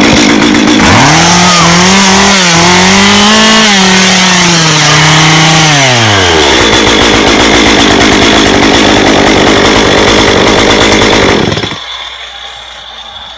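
Chainsaw engine running loud. It revs up about a second in, holds high for several seconds, then drops back toward idle. It cuts off abruptly near the end.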